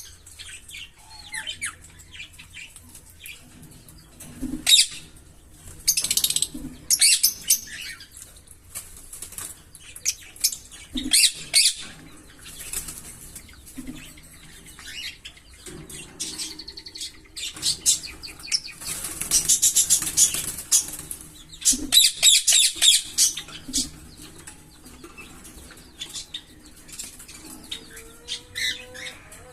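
A pair of Fischer's lovebirds chirping: shrill, high calls in irregular bursts. Twice, from about two-thirds of the way in, they break into dense runs of rapid chattering lasting a couple of seconds: the lovebird 'giggle' song.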